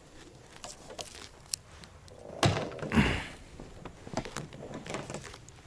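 Small clicks and knocks, with two heavier thuds about two and a half and three seconds in: things being handled and knocked about in a boat.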